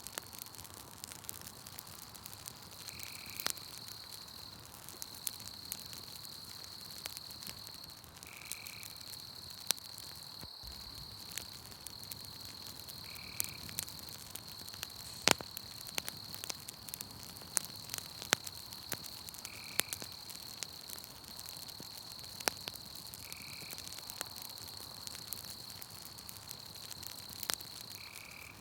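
Campfire crackling, with sharp pops scattered throughout, over a steady high-pitched insect trill from a night forest. A short chirping call repeats every four to six seconds.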